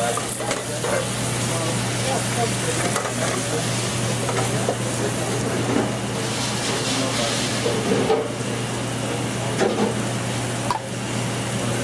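Pasta in a liquidy chicken liver sauce sizzling in a pan as it is stirred, finishing cooking over the heat, with scattered small clicks over a steady low hum.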